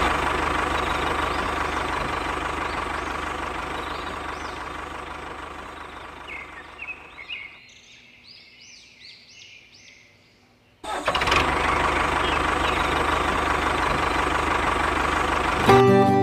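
Steady motor running sound for a miniature toy tractor, fading away over the first seven seconds and cutting back in abruptly about eleven seconds in, with faint high chirps in the quiet gap between. Strummed acoustic guitar music starts just before the end.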